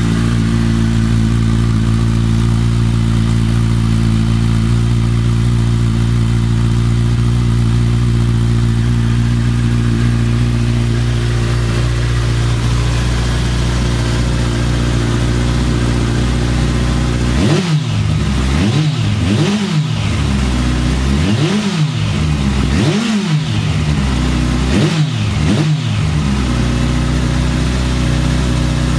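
2011 Kawasaki ZZR1400's inline-four idling steadily through aftermarket Fuel slip-on exhaust cans with the baffles installed, then blipped several times in quick succession, each rev rising and falling back to idle, before settling to idle again. The note is deep and meaty.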